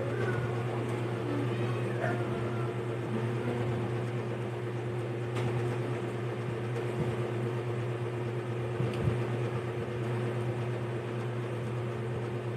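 Steady low electrical hum with a constant tone underneath. A cat meows faintly about two seconds in, and there are a couple of small clicks later.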